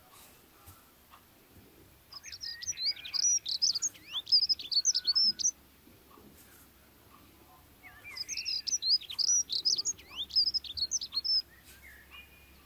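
A songbird singing two bouts of rapid, high twittering chirps, each about three seconds long, the first about two seconds in and the second about eight seconds in.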